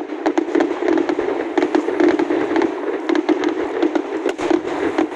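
Aerial fireworks display going off: a rapid, irregular run of sharp cracks, bangs and pops from bursting shells, several a second, over a steady rumble.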